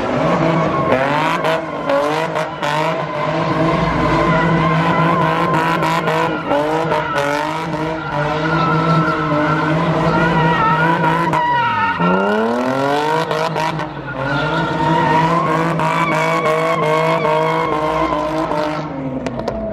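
A car spinning its tires hard: the engine held at high revs with the tires squealing continuously. About twelve seconds in the revs drop briefly and climb again, and the sound falls away near the end.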